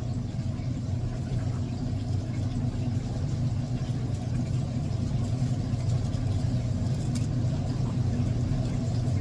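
Steady low mechanical hum, like a motor or engine running at a constant speed.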